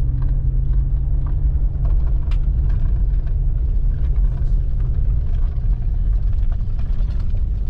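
Vehicle engine and tyres rumbling, heard from inside the cabin while driving on a rough dirt trail in two-wheel drive. A steady engine tone eases off after about five seconds, and a few light knocks and rattles come through.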